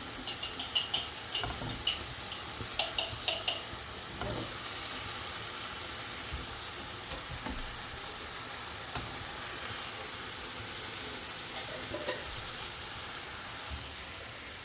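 Food sizzling as it fries in a pan, with a utensil clinking against the pan a dozen or so times in the first few seconds as it is stirred.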